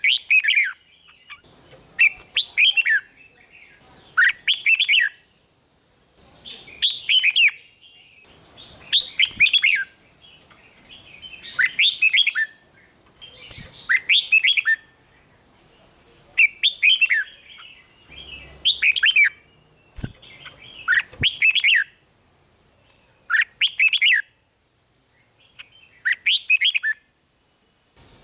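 Red-whiskered bulbul singing short, quick warbled phrases over and over, about one every two seconds, over a faint steady high tone.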